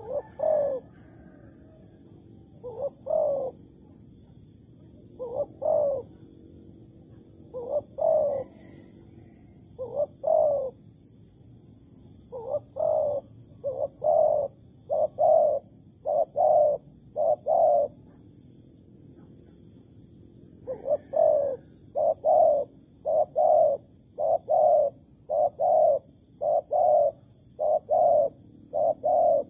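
Spotted dove cooing: repeated short phrases of two or three soft coo notes, spaced a couple of seconds apart at first and then coming in quicker succession from about the middle on, with a pause just before.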